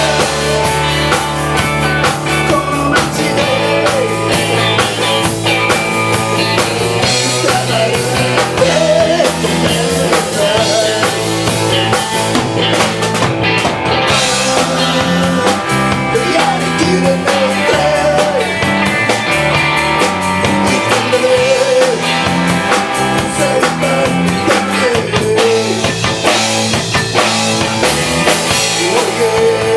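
A rock band playing live, with drum kit and guitar and a wavering melody line that is at times singing.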